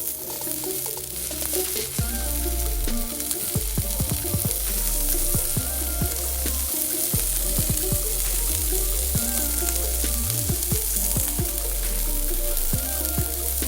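Yakitori chicken skewers sizzling and spitting as they grill over a small solo fire pit, a steady hiss full of tiny crackles, with background music playing.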